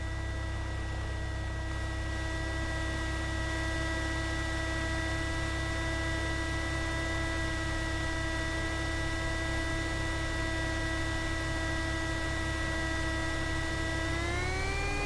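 Steady pitched hum with a row of overtones in a Cessna 172's cockpit audio during departure, rising in pitch about fourteen seconds in.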